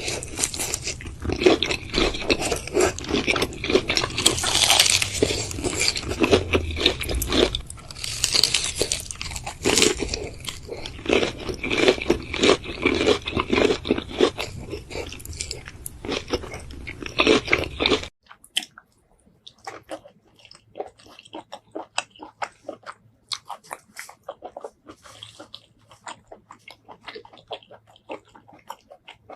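Close-miked eating: crunchy bites and chewing. About two-thirds of the way through it cuts abruptly to quieter, sparser chewing clicks.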